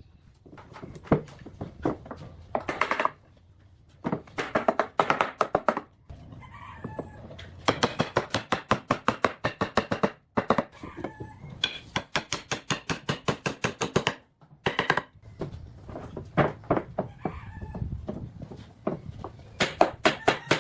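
Rapid runs of sharp knocks, several a second, from a tool striking wood, each run lasting a second or few with short pauses between.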